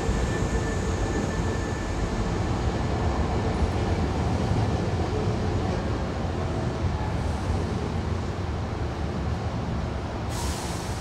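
Hankyu commuter train at the platform, its machinery giving a steady low rumble. Near the end comes a sudden burst of compressed-air hiss.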